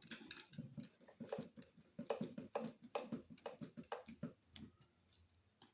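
Irregular light clicks and taps of a screwdriver driving the mounting screws of a wall receptacle into its electrical box, a few per second, thinning out near the end.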